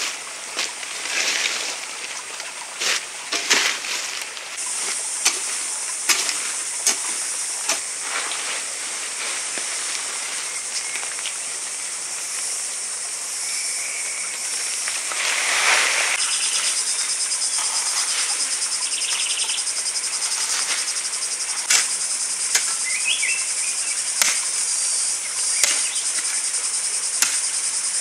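Insects trilling: a steady, high, finely pulsing chorus that comes in a few seconds in. Scattered sharp knocks and clicks sound throughout, and a few short bird chirps come near the end.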